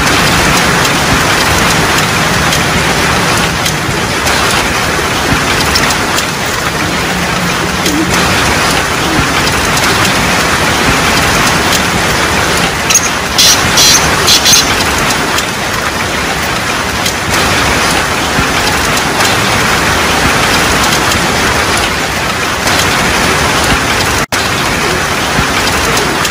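Steady heavy rain on pavement, with a black francolin's (kala teetar) harsh call of several short, high notes about halfway through.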